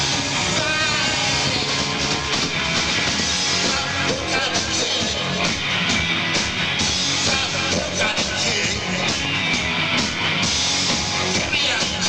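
A rock band playing live: loud electric guitars, bass and drums in a steady, continuous instrumental stretch of a song.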